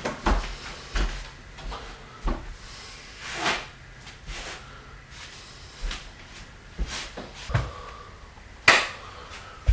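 A string of irregular knocks and thumps with a few brief swishes, the loudest a single sharp knock near the end.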